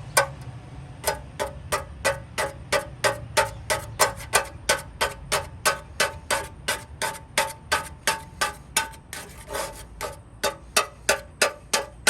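A metal scraper working over a porcelain-enamelled sink in quick, even strokes, about three a second. Each stroke ends in a sharp click with a short ring from the sink. The chemical left on the stain has not loosened it.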